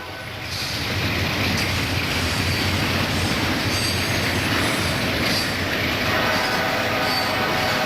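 Freight train rolling past: a steady rumble of wheels on the rails, with faint high squeals of wheels on rail coming and going.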